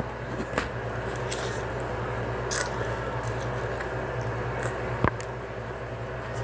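Eating sounds from a plate of spaghetti: soft squishy noises and a few short, sharp clicks, over a steady low hum.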